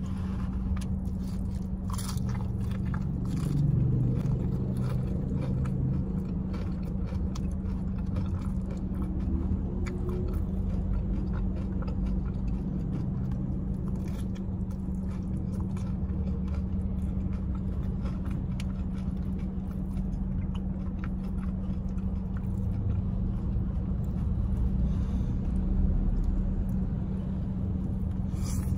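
A person chewing and biting while eating ayam geprek, crispy smashed fried chicken with sambal, and rice by hand, with many small crunches and mouth clicks. A steady low hum from the car runs underneath.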